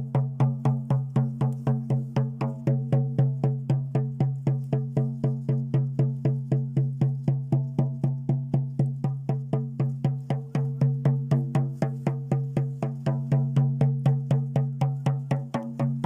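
Drum beaten in a steady, even rhythm of about three to four strokes a second, over a continuous low steady tone, as in a shamanic drumming track.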